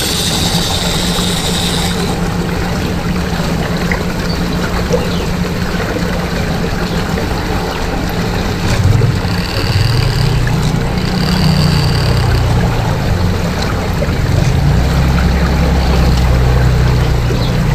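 Swirling, pouring water over a steady low motor-like hum. The hum shifts about halfway through and gets deeper near the end.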